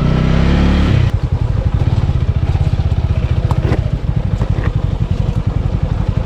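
Motorcycle engine pulling under throttle, then shut off about a second in. It drops to a steady low-revving beat with a few light clicks and rattles.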